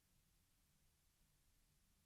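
Near silence: faint background hiss and hum.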